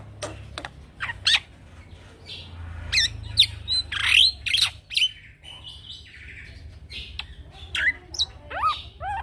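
Young male black-winged myna (jalak putih) singing: sharp clicking notes, then quick rising and falling whistles and harsh squawky calls, delivered in bursts with short pauses.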